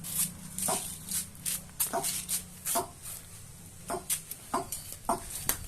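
A bird giving a string of short nasal calls, irregularly about once a second, each dropping slightly in pitch, with short scratchy hissing bursts between them.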